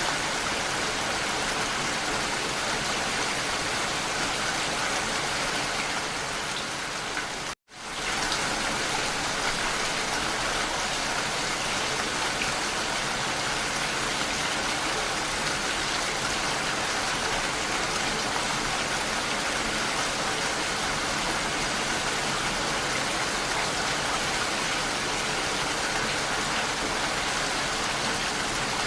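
Steady rainfall, an even hiss of falling rain, which cuts out completely for an instant about seven and a half seconds in and then carries on unchanged.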